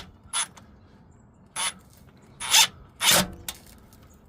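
A clamp being worked into place around a car's exhaust heat shield: four short, irregular scraping rasps of metal on metal, the last one the longest.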